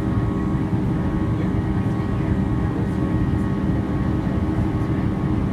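Steady cabin drone inside a Boeing 737-800 climbing after takeoff: the CFM56 turbofan engines and airflow make a low rushing noise with several steady tones running through it.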